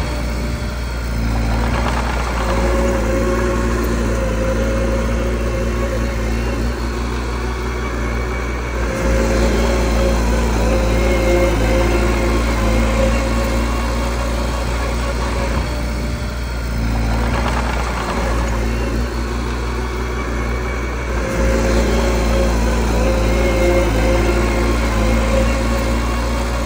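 Mini bulldozer's diesel engine running steadily under work, its engine note shifting every several seconds as it pushes and backs up.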